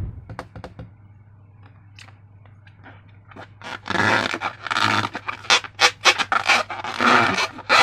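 Sticky slime being squished and worked by hand: scattered clicks at first, then from about three and a half seconds in a run of irregular wet squelches and pops, over a low steady hum.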